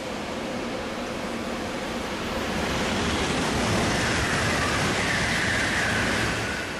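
Shinkansen train rushing past: a wash of noise that swells over the first few seconds, carries a falling whine in its loudest part, and drops away near the end.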